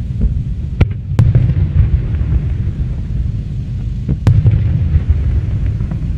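Aerial fireworks going off: a continuous low rumble of bursting shells, broken by sharp cracks, two close together about a second in and another about four seconds in.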